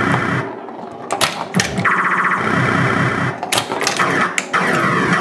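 Williams Gorgar pinball machine in play: its electronic sound effects, tones sweeping up and down in pitch, with several sharp mechanical clacks from the playfield.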